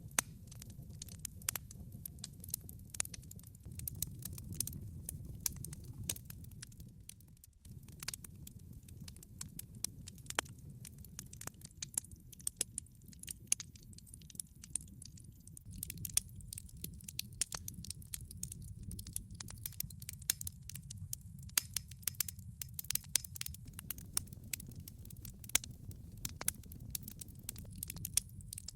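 Wood log fire crackling: a steady scatter of sharp pops and snaps over a low, even rumble of burning, dipping briefly about seven seconds in.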